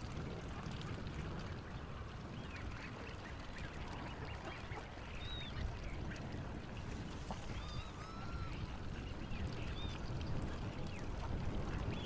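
Many birds calling, short arching calls scattered throughout, over a steady low background rumble.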